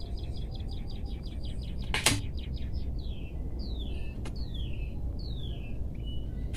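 A songbird singing: a fast trill of repeated high notes, then several slurred notes falling in pitch. One sharp click about two seconds in and a fainter one near four seconds.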